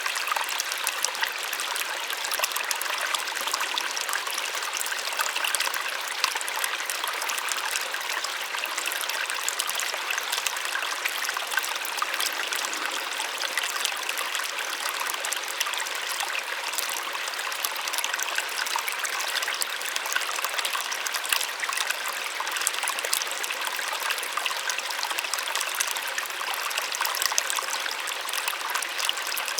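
A small waterfall splashing steadily, a continuous bright rush of falling water with fine splatter and little low rumble.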